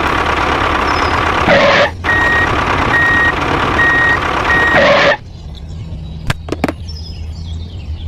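Engine noise with a vehicle's reversing alarm beeping four times, a high steady tone repeating under a second apart; the noise cuts off suddenly about five seconds in, leaving a low hum and a few clicks.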